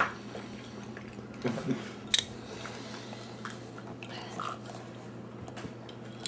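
A person chewing pickled jalapeño slices, with a few short soft clicks and knocks, over a low steady hum.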